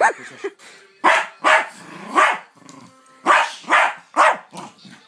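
Dog barking excitedly, about seven loud barks in quick groups, worked up over a key held out to it.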